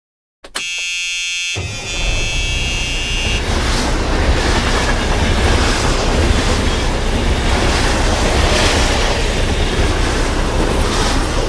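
Train sound: a whistle-like tone sounds about half a second in, then a loud, steady rumbling clatter of a moving train.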